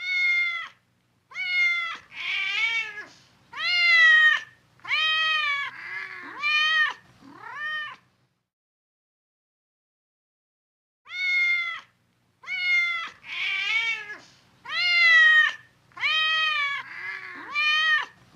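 A cat meowing repeatedly in a run of about seven high, drawn-out meows that rise and fall in pitch. After a gap of about three seconds the same run of meows comes again.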